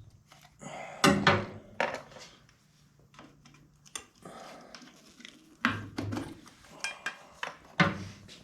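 Metal hand tools clinking and knocking against metal parts while a Stromberg carburettor is being unbolted and removed, in a series of separate sharp clinks.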